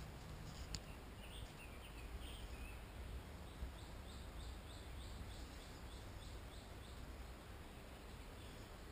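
A bird singing: a few short chirps, then a steady run of repeated high notes, about three or four a second, over a faint low outdoor rumble.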